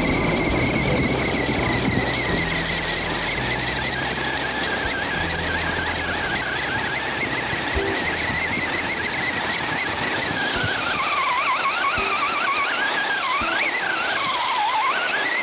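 Electric motor and drivetrain of an RC short-course truck whining at a steady high pitch. In the last few seconds the whine drops and climbs again twice as the throttle comes off and back on.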